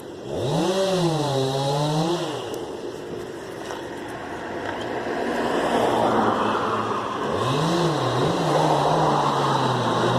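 A motor vehicle engine revs up and eases back twice, about seven seconds apart, with a rushing noise swelling between the two revs.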